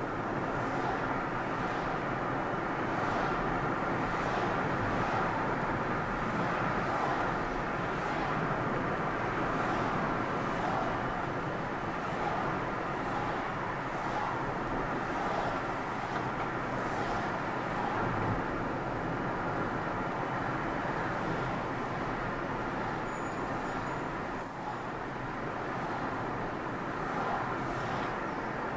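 Steady road and engine noise of a car driving along, an even rush with no change in pace, and a single short click about three-quarters of the way through.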